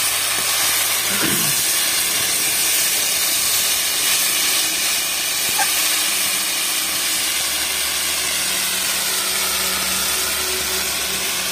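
Spinach and brinjal stir-frying in a kadai, a steady hiss of sizzling and steam as the greens are turned with a metal spatula.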